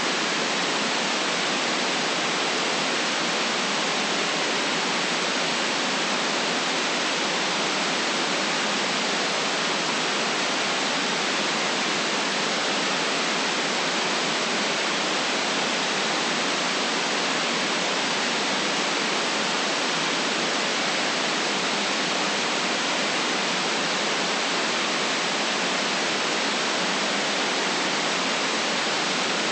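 Steady, unchanging white noise: an even hiss with no breaks or changes, used as a sleep sound.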